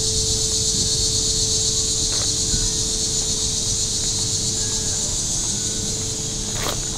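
Steady high-pitched chorus of insects droning without a break, over a low steady hum, with one sharp click near the end.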